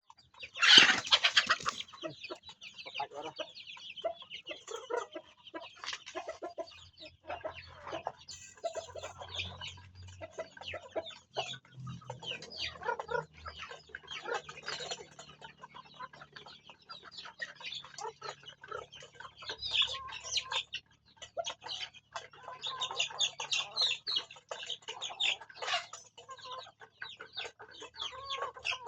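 Flock of farm chickens clucking, with many short calls throughout and one loud outburst about a second in.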